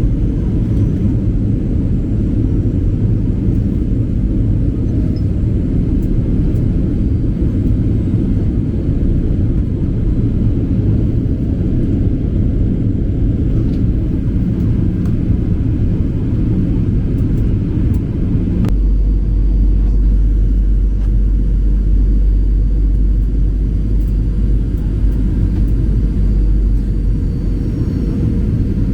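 Steady low rumble of engine and airflow noise inside the cabin of a Boeing 737-800 in flight. About two-thirds of the way through, the rumble abruptly deepens and gets a little louder, then holds steady.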